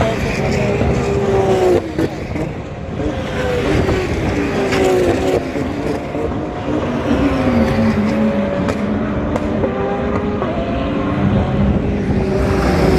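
GT race cars' engines running past on track, several at once, their pitch climbing and dropping repeatedly with gear changes.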